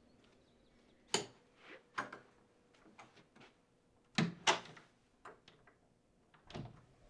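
Wooden interior door being handled: a few separate sharp knocks and clicks, with two close together about four seconds in and another near the end.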